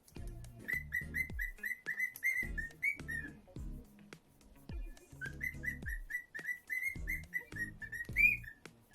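Lutino cockatiel whistling: two runs of short, rising notes, about three or four a second, with a pause of a second or two between them; each run ends on a higher note.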